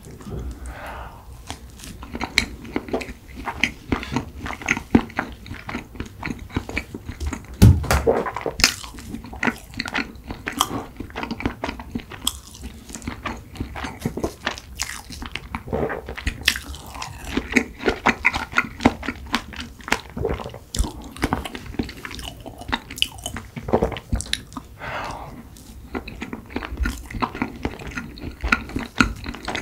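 Close-up eating sounds of a strawberry cream rice cake taken with chopsticks: bites and wet chewing, with many short sharp clicks running all through.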